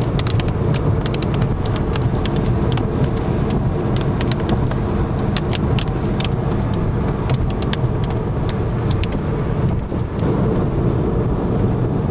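Inside a moving car: a steady low road and engine rumble, with many irregular sharp ticks, several a second, that thin out near the end.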